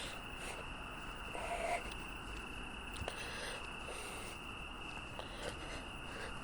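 Quiet ambience with a faint, steady high-pitched tone throughout, a brief mid-pitched tone about a second and a half in and a small click about three seconds in.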